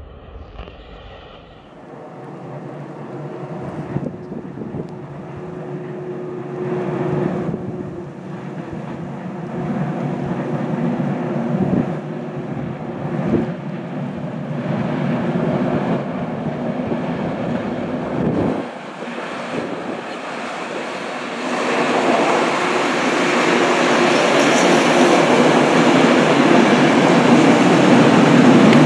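ÖBB class 1144 electric locomotive hauling a EuroCity passenger train, approaching and passing close by. A steady hum and a few sharp clicks of wheels over rail joints sit over the rolling noise, which grows louder as the coaches pass near the end.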